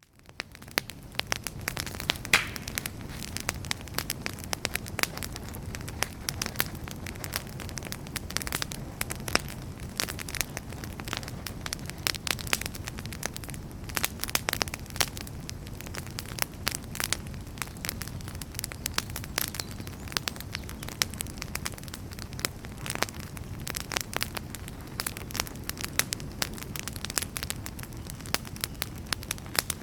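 Wood fire burning in a fireplace, crackling with frequent sharp pops over a steady low rumble of flames. The sound fades back in from near silence in the first second.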